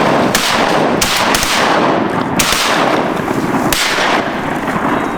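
A volley of shotgun blasts from several duck hunters firing at mallards over decoys: about five sharp shots spread unevenly over four seconds, over a loud continuous rushing noise.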